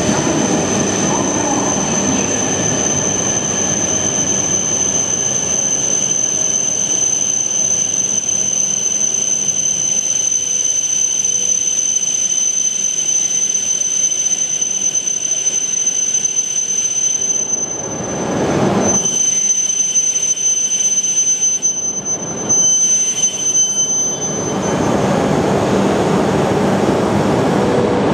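Tohoku Shinkansen train moving along a station platform: running noise with a steady high-pitched whine that stops about 25 seconds in, and swells of rushing noise in between.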